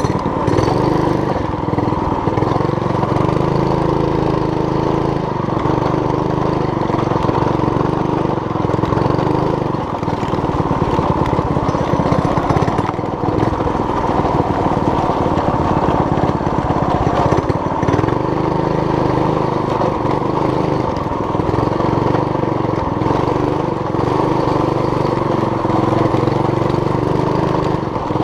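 Small engine of a homemade mini bike running steadily as the bike is ridden.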